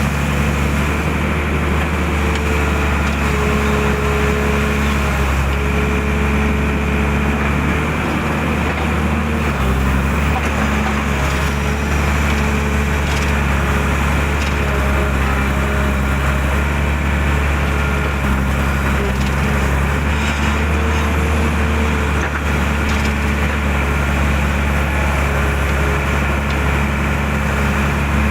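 Excavator diesel engine running steadily under load, a deep hum throughout, with a higher tone that rises and fades every few seconds as the machine works.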